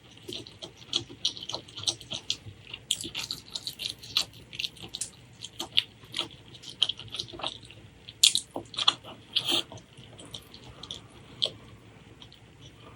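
Close-miked eating: chewing with a steady run of wet mouth clicks and smacks at an uneven pace, with a louder cluster of smacks about two thirds of the way through.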